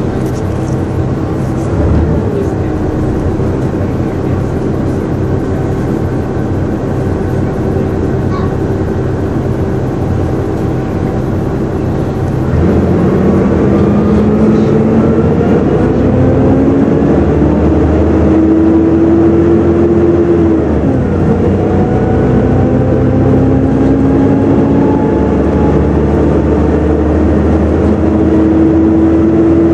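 Volvo B7TL double-decker bus heard from on board: the engine runs steadily, then about halfway through it pulls harder. A loud hoover-like whine rises through one gear, drops at a gear change, and rises again through the next, dropping once more at the end.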